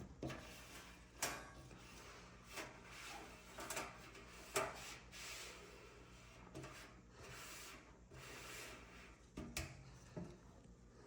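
Parts of a GE dryer being handled during disassembly: scattered sharp knocks, with scraping and rubbing between them.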